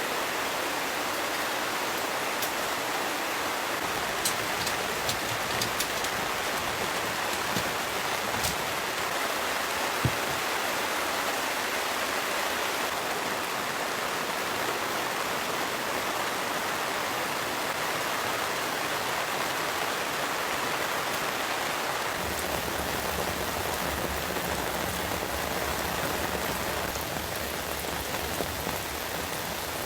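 Heavy rain falling steadily on a tent, with a few sharp ticks of single drops; about two-thirds of the way through a low rumble joins in.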